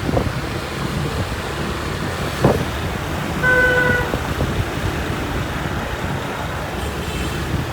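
Steady motorbike engine and road noise of riding in traffic, with one horn beep lasting under a second about three and a half seconds in.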